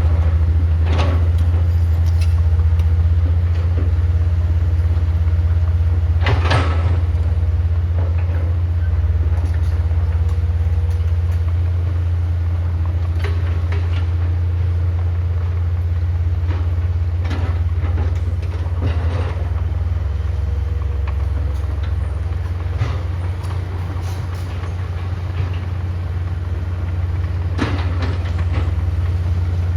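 Heavy diesel equipment engine running steadily with a deep drone, with a few sharp knocks or rattles over it, the loudest about six seconds in.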